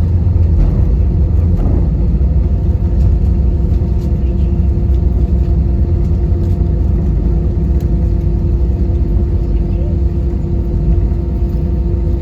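Airbus A320-200 cabin noise on the ground just after landing: a steady low rumble with a constant hum, a little heavier in the first couple of seconds.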